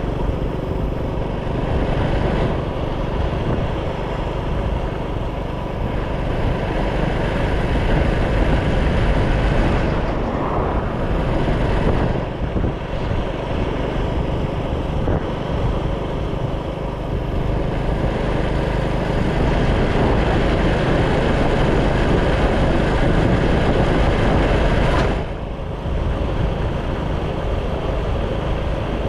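Motorcycle running on the move, with a dense rush of wind and road noise over the microphone. The noise dips briefly about 25 seconds in.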